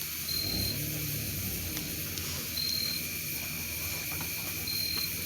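Night insects calling: a short high chirp repeating about every two seconds over a steady high insect drone, with a few faint pops.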